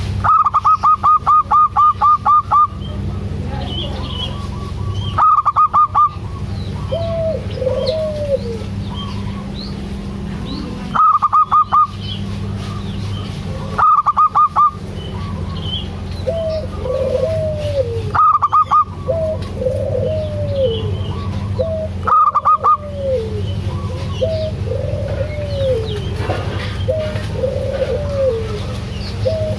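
Zebra dove (perkutut) cooing: repeated short, arched coo phrases. Every few seconds they are broken by a louder burst of a rapid, higher-pitched pulsed trill, over a steady low hum.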